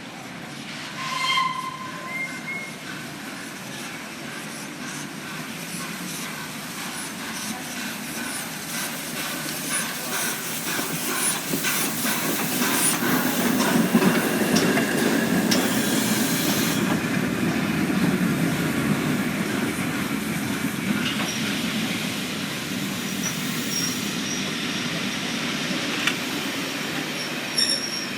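A train moving past the platform: a rumble that builds to its loudest about halfway through and then eases, over many clicks and clanks of wheels on the rails. A short high tone sounds about a second in.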